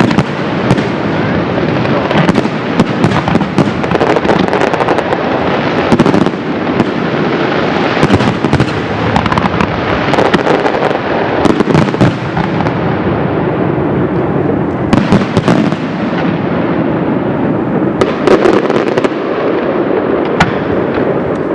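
Loud fireworks barrage: a dense, continuous rumble of bursting shells and crackle, with sharp bangs going off every fraction of a second.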